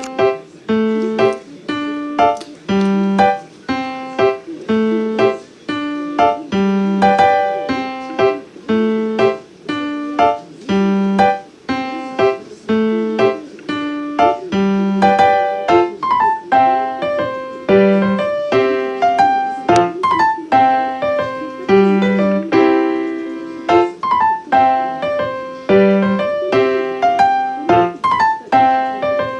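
Solo piano background music, a slow, even run of single notes and chords.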